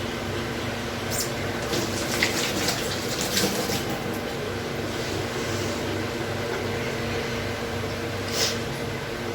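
A steady mechanical hum, with a few short clatters and splashy noises about one to four seconds in and once more near the end.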